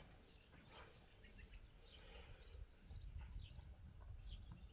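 Faint open-air ambience: scattered short, high bird chirps over a low rumble.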